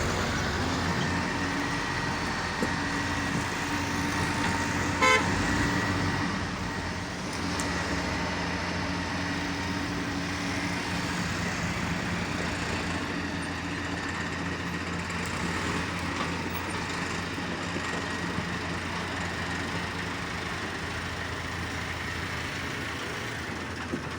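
Diesel engine of heavy road-clearing machinery running steadily, with one short horn toot about five seconds in.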